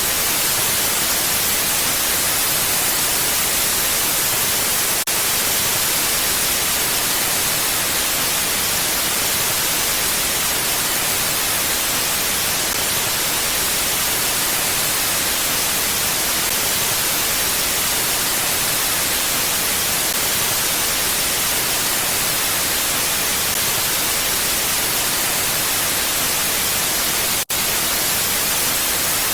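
Steady, even hiss of wind ambience with no audible gusts, brightest in the high end. It cuts out for an instant about five seconds in and again near the end.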